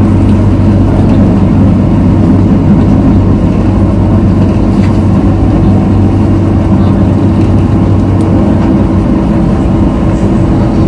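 MTR South Island Line S-Train running along the line, heard from inside the car: a loud, steady running noise with an even motor hum.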